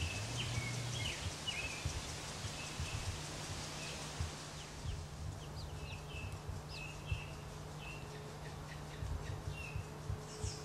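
Short, high bird chirps, a dozen or so scattered irregularly, over a steady low hum.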